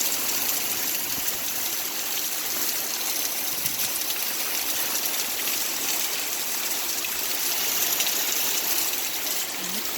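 Rainwater runoff rushing over steps and pouring through a gutter in heavy rain, a steady rushing noise.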